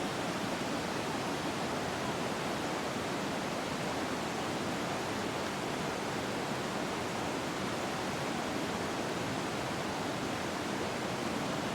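Waterfall rushing in a steady, even roar of falling water that does not change.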